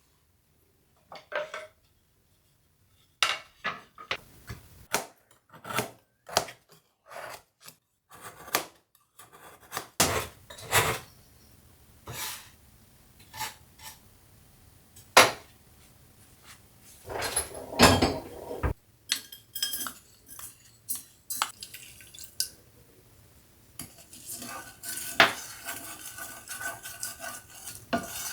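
Kitchen utensils and cookware knocking and clinking, a run of separate sharp strikes of metal spoons against pots and dishes. A steady hiss joins near the end.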